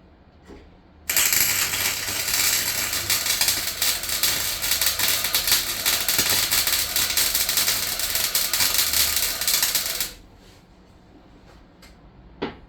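Welding arc crackling steadily on the steel floor of a van, starting suddenly about a second in and cutting off after about nine seconds as the trigger is released. A single short click follows near the end.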